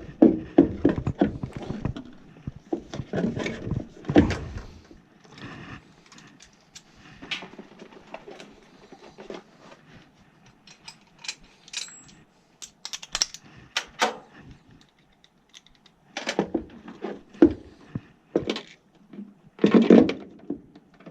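Hands working on furnace parts: scattered clicks, knocks and clatter, with heavier bursts of thumps in the first few seconds and again near the end.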